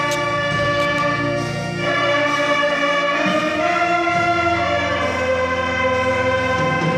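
Church orchestra with brass playing a slow instrumental hymn, sustained chords changing every second or two.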